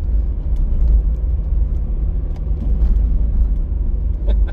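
Inside a moving car's cabin: a steady low rumble of tyre and wind noise, with scattered sharp ticks of hail striking the car body, the clearest near the end.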